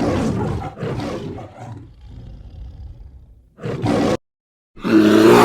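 A large animal roaring: one long, rough roar that fades away over about three seconds, then two short, loud roars, each cut off abruptly, near the end.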